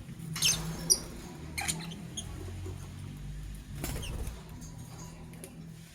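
Fischer's lovebirds giving short, high squeaky chirps, several scattered through a few seconds, over a low steady hum.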